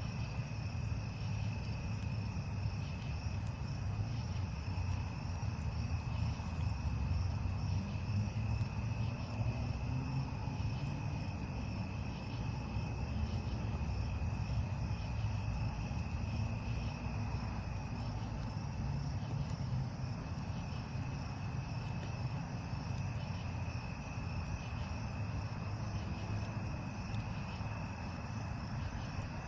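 Crickets chirping steadily in a continuous high trill, which drops off briefly a little past halfway, over a steady low rumble.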